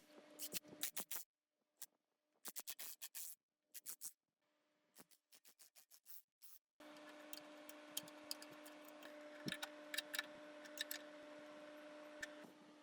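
Quick runs of sharp clicks and snips from hand work with tools, broken by dead silences at first; from about seven seconds in a steady hum runs underneath the clicks.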